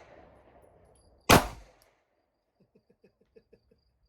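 A single 9mm handgun shot about a second in, loud and sharp with a short tail, followed by a quick run of faint ticks.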